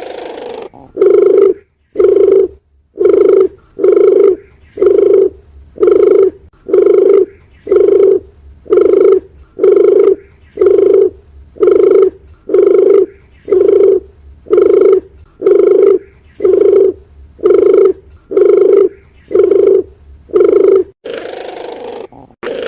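Dove cooing: a long series of loud, evenly spaced low coos, about one a second, with a softer, rougher call at the start and again near the end.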